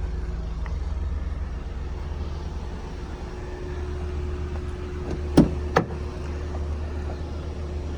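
Steady low hum with two sharp clicks about half a second apart a little past halfway, fitting a pickup's door latch being opened.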